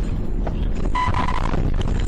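Steady low rumble of vehicle engine and road noise, with a short high beep about a second in.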